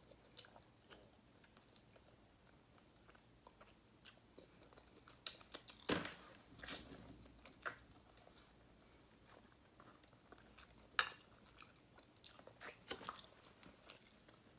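A person biting and chewing a piece of braised oxtail held in the fingers, with scattered short mouth clicks. The loudest clicks come about halfway through and again about eleven seconds in.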